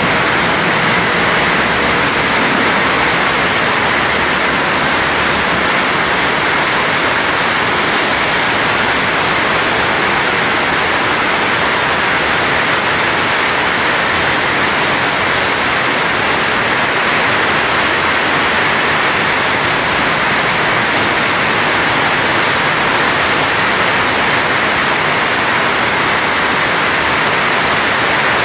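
Heavy tropical downpour: a steady, loud hiss of rain that holds unchanged throughout.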